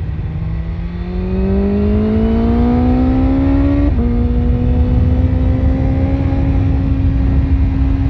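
BMW S1000RR inline-four with an Akrapovic exhaust pulling hard under acceleration. The engine note climbs for about three seconds, drops suddenly at an upshift about four seconds in, then rises again more slowly in the next gear, over a steady rush of wind noise.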